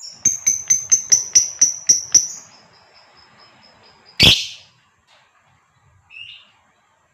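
Female fighter lovebird calling: a rapid string of about nine sharp, high chirps over two seconds, then a thin high note that fades out. About four seconds in comes one loud harsh burst, and near the end a short, lower call.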